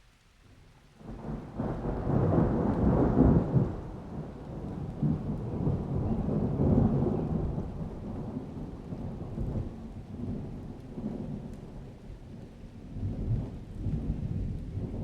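Thunder rolling in a rainstorm: a low rumble builds about a second in, is loudest over the next few seconds, then keeps rumbling in waves.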